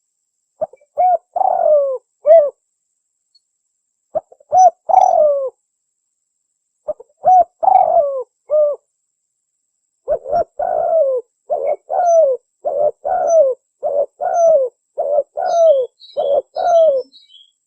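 Spotted dove (tekukur) cooing: three separate short phrases of bending coo notes, then from about ten seconds in a faster run of about a dozen coos. Faint high chirping from a small bird near the end.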